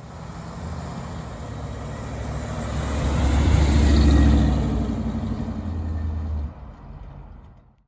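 A car engine running as it goes by, swelling to its loudest about halfway through, then dropping off sharply and fading out near the end.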